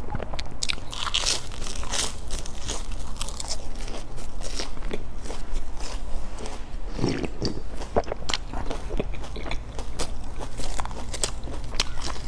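Close-up chewing and crunching of crumb-coated fried bread buns, with many short crisp crackles, over a steady low hum.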